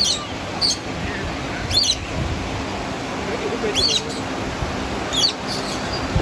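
Small birds chirping: about five short, high, sharp calls a second or more apart, over a steady background hiss.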